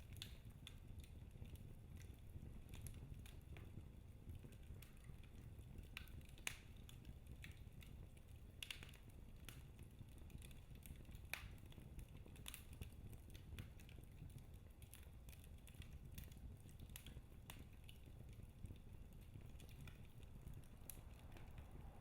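Wood fire burning in a fireplace, crackling quietly: irregular sharp pops and snaps over a low, steady rumble.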